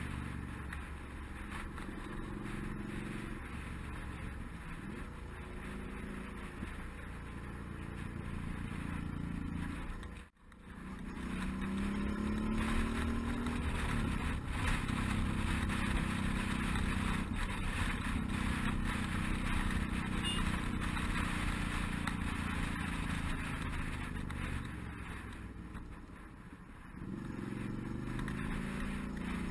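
Suzuki DL650 V-Strom's V-twin engine on the move, revs rising and falling through the gears with wind rush. The sound drops out briefly about ten seconds in, then the engine pulls up through the revs again.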